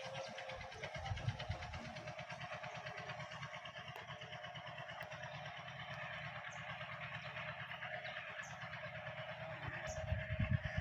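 An engine running steadily nearby with a fast, even low pulsing, like an idling motor, with a few faint short high chirps in the second half.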